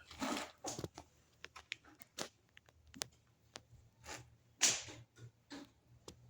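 Irregular short rasps and small clicks from hands working silicone sealant around a water tank's fitting to seal it against leaks.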